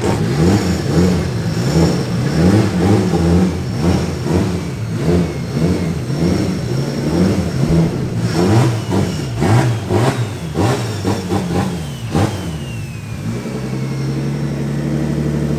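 Car engine revved in quick repeated blips, its pitch rising and falling again and again, then settling to a steady idle about 13 seconds in.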